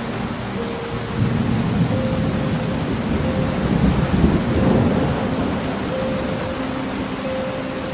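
Steady rain falling, with a long rolling rumble of thunder that swells about a second in, peaks around the middle and slowly fades.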